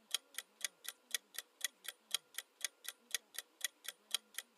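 Countdown timer sound effect ticking, about four ticks a second, steady and even.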